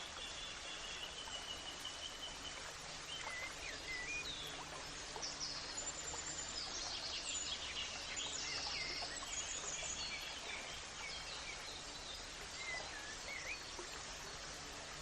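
Several birds chirping and singing in short, varied phrases over a steady background hiss, busiest from about five to ten seconds in.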